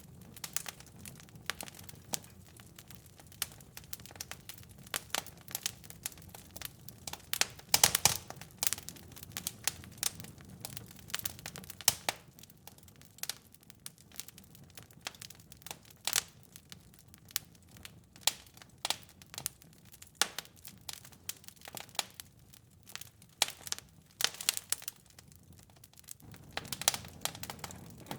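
Wood fire crackling in a fireplace: irregular sharp pops and snaps over a soft low hiss, with a loud cluster of pops about eight seconds in.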